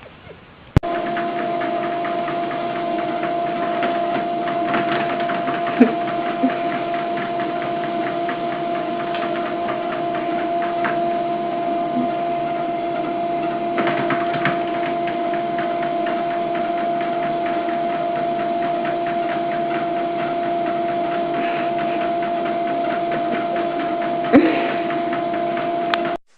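A steady mechanical hum with a constant tone, starting suddenly about a second in and cutting off abruptly near the end, with a few faint clicks over it.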